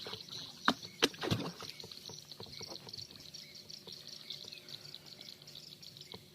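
Two sharp knocks, then a short splash of water about a second in, over steady high-pitched insect chirping.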